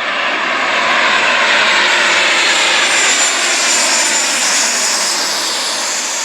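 Loud aircraft engine noise, swelling and then slowly easing, with its pitch drifting gradually downward.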